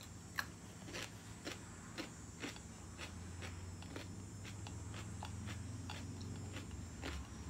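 Close-up chewing of fresh, crisp celery with chicken salad: sharp crunches about twice a second, becoming less regular.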